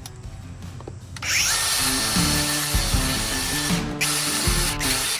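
A handheld power tool fitted with a wire brush spins up about a second in and grinds rust off the truck's steel underside. It lets up briefly near four seconds, then cuts off just before the end.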